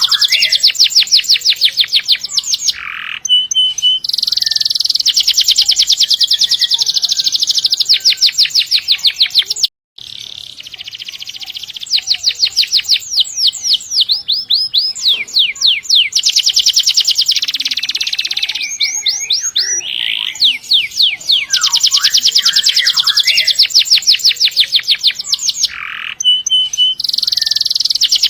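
Domestic canary singing long, fast rolling trills of rapidly repeated high notes, phrase after phrase with short breaks. The song cuts out completely for a moment about ten seconds in.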